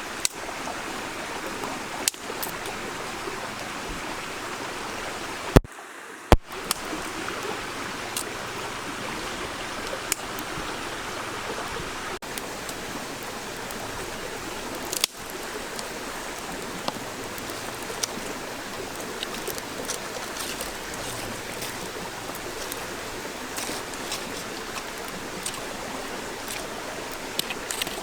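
Steady rush of running water, broken by a few sharp clicks and a brief gap about six seconds in.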